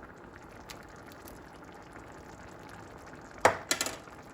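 Meat sauce simmering in a pot, a steady bubbling hiss with small pops. A few loud sharp knocks come about three and a half seconds in.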